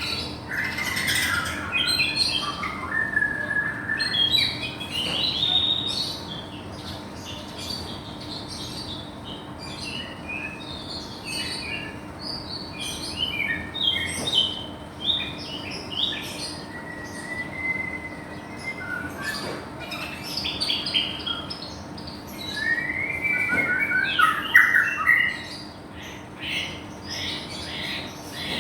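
White-rumped shama (Medan murai batu) singing a long, varied song of clear whistles, rising and falling glides and quick chattering phrases, rich in borrowed phrases from other birds. The phrases come without pause, with the loudest, busiest run near the end.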